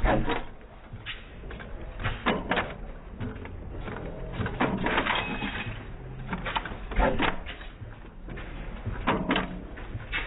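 Antique 4 hp Chase stationary gas engine running, firing in sharp bursts about every two seconds with quieter stretches between.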